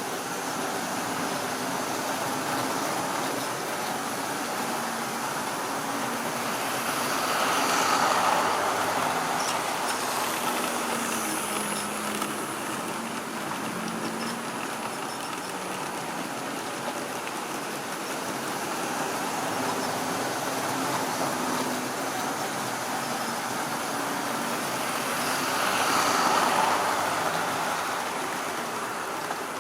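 Model railway train running around a track loop: a steady motor hum and wheel rumble on the rails that swells as the train passes close by, twice, about 18 seconds apart.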